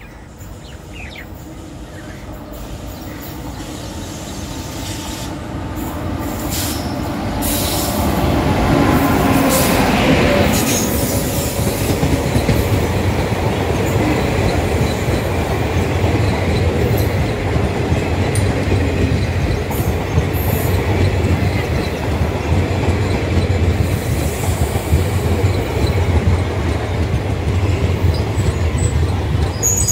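Passenger train running on the rails, growing steadily louder over the first eight seconds and then holding a loud, steady rumble of wheels on track with some wheel squeal.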